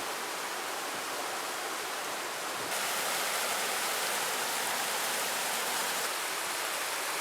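Rain-swollen creek running fast: a steady, even rush of water that grows a little louder about a third of the way in.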